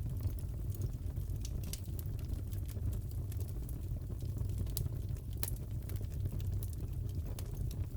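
Crackling wood fire in a fireplace: scattered sharp pops and crackles over a steady low rush of burning.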